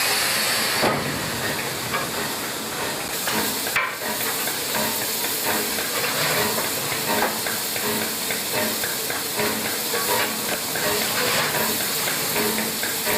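Steam locomotive hissing steam steadily, with faint crackling through it.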